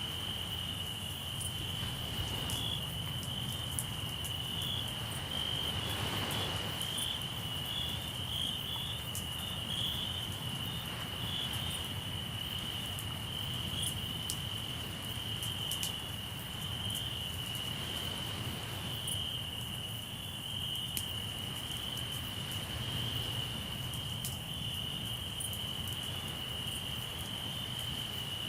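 Crickets chirring in one steady high, continuous trill. Scattered sharp crackles of a campfire and the low, steady rush of the sea sit underneath, with a brief swell of surf about six seconds in.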